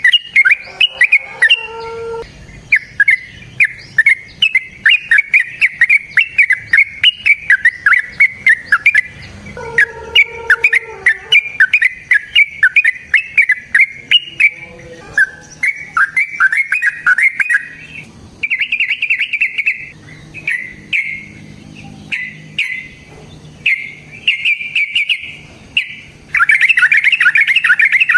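Yellow-vented bulbul (trucukan) singing a long run of rapid, repeated chirping notes. The notes come in a near-continuous stream at first, then break into shorter spaced phrases, with a dense burst near the end.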